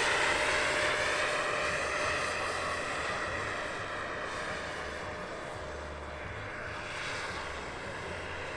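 Giant RC Bell 412 helicopter's Jakadofsky 5000 model gas turbine in flight, a steady whine whose pitch sags slightly as the sound grows fainter over the first few seconds.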